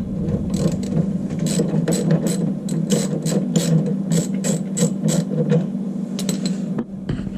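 Ratchet wrench clicking in short runs as nuts are run loosely onto the bolts of a water heater's square-flange heating element, over a steady low hum.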